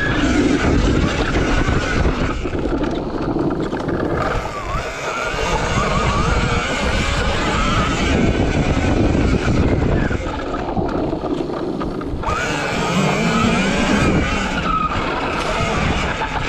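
RFN SX E15 Plus electric dirt bike ridden on a dirt track: the motor whines, its pitch rising and falling with speed, over a loud rushing noise. The rushing eases twice, around four seconds in and again about eleven seconds in.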